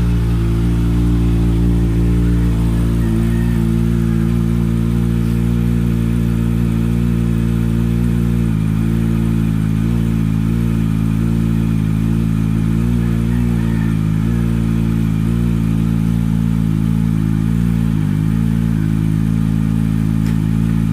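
Kawasaki ZX-25R's 249 cc inline-four idling steadily through an Akrapovic exhaust while warming up after a cold start. The idle settles slightly lower about eight seconds in.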